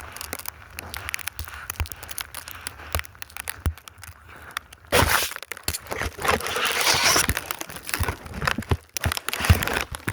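Snow crunching and scraping close to the microphone, in irregular crackles that grow louder and denser about halfway through.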